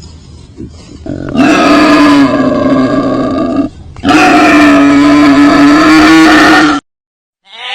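Two long, loud animal calls, each held at a steady pitch for two to three seconds with a short gap between them, then a sudden cut to silence near the end.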